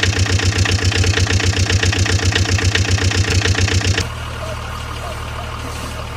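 Engine idling with a fast, even pulse; about four seconds in it cuts off abruptly and a quieter, steady engine hum takes over.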